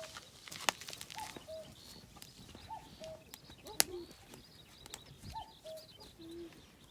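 Common cuckoo calling its two-note 'cuck-oo', a higher note then a lower one, repeated about four times. Two sharp cracks stand out as the loudest sounds.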